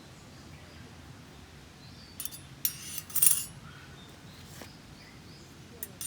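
Small metal pieces clinking and jangling in a couple of short bursts about two seconds in, over a faint steady background.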